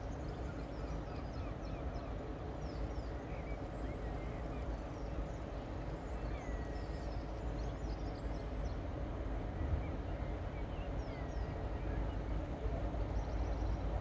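Birds singing, scattered short chirps and whistles, over a steady low rumble that grows slightly louder toward the end.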